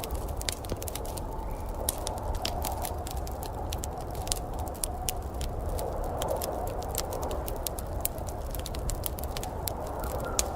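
Wood fire crackling in a fireplace: many irregular sharp pops and snaps over a steady low rushing sound.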